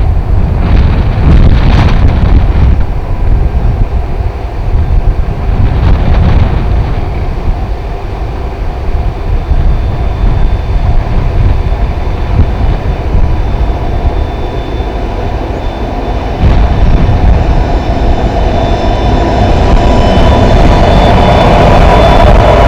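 A diesel-hauled freight train runs slowly as it comes to a stop, with strong wind buffeting the microphone. In the last few seconds steady high-pitched tones rise and grow louder.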